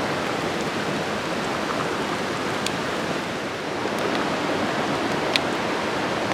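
Wood campfire burning: a steady rushing noise with a few sharp single crackles.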